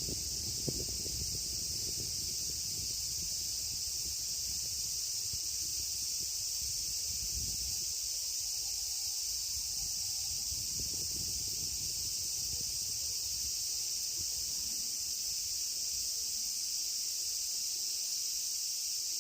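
Steady, unbroken high-pitched chorus of insects. Low, irregular rumbles of wind on the microphone come and go beneath it.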